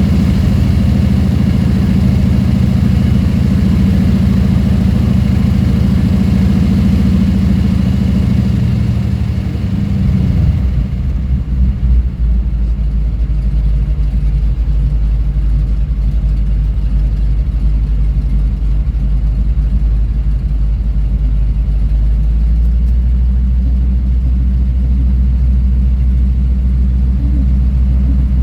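Floatplane's propeller engine running loud and steady. About ten seconds in its pitch drops over a second, then it holds lower and steady.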